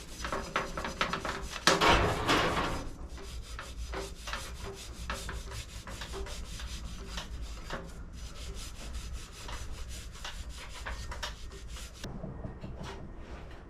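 Toothbrush scrubbing a thin wax-like protective coating into the textured surface of a cast alloy gearbox casing, in quick repeated bristle strokes that ease off near the end.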